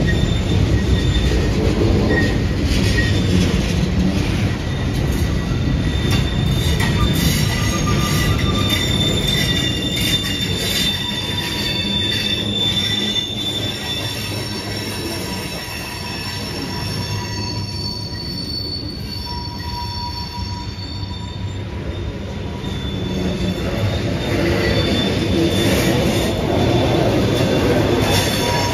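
Freight cars rolling through a rail yard: a steady rumble with high squealing from the wheels and scattered clicks. The squeal fades in the middle and returns near the end.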